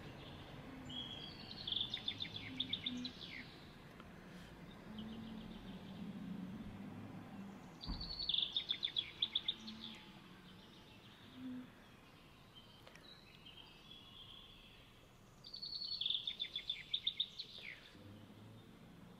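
A songbird singing three songs about seven seconds apart, each about two seconds long: a quick run of repeated high notes that ends in a falling slur. Faint steady outdoor background noise lies underneath.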